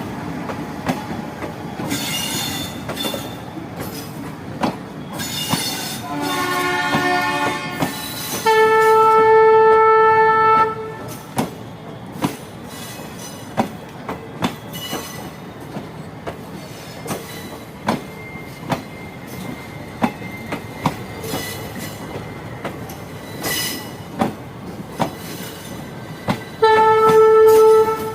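Train running on the track, its wheels clicking over rail joints again and again. The train's horn sounds several times: a shorter call about six seconds in, a long loud blast at about nine to eleven seconds, and another near the end.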